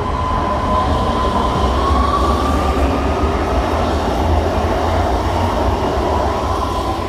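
Regional electric multiple unit pulling into an underground station platform and running past close by: a steady deep rumble of wheels on rail, with a high whine that drifts slightly up about two seconds in and then settles back.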